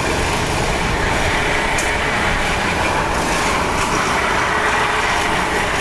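Steady vehicle traffic noise, an even, continuous rumble and hiss with no single vehicle standing out.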